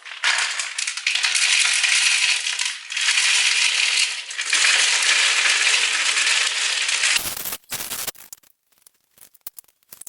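Rust-cutter tumbler media clattering, a dense rattle of many small hard pieces for about seven seconds with a few brief dips, then cutting off suddenly; a few scattered clicks follow.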